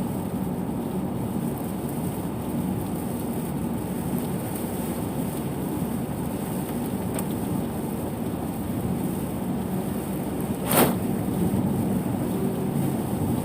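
Steady noise of vehicle traffic on a rain-soaked road in heavy rain, with one short, louder burst of noise about eleven seconds in.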